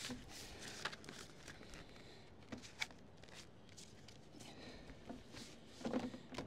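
Scattered light taps, knocks and rustles of hand work, with a short cluster of louder knocks about six seconds in.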